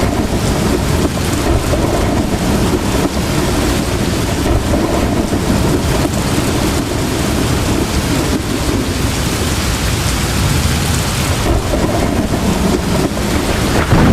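Heavy rain falling steadily with a continuous low rumble of thunder.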